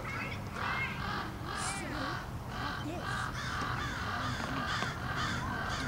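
A bird giving a long series of harsh calls, about two a second, with fainter chirps among them.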